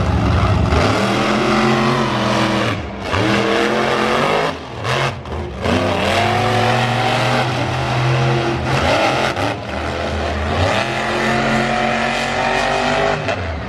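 Monster truck engine revving hard, its pitch climbing and falling as the throttle is worked, with the throttle lifted briefly several times.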